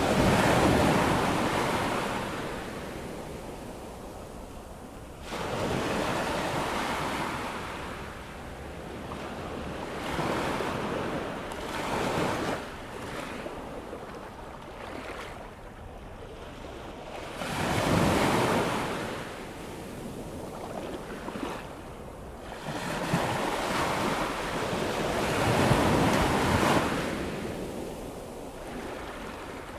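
Ocean waves breaking on a sandy beach as the tide comes in, each wave rising to a crash and washing back, roughly every four to six seconds, with the loudest breaks near the start, about eighteen seconds in, and again around twenty-six seconds. Light wind is on the microphone.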